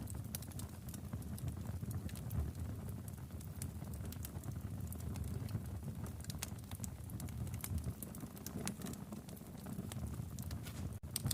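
Wood fire in a fireplace crackling, with irregular pops and snaps over a steady low rumble. The sound cuts out for an instant near the end.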